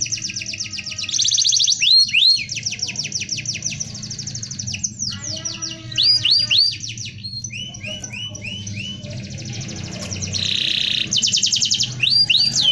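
Domestic canary singing a dense rolling song: long, fast trills of rapidly repeated notes, switching every second or two to quick upward-sweeping whistled phrases.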